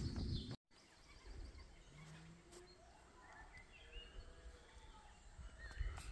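Faint birds chirping and singing over quiet outdoor ambience, after a short loud patch of walking and rustling noise at the start that cuts off suddenly. A louder knock comes near the end.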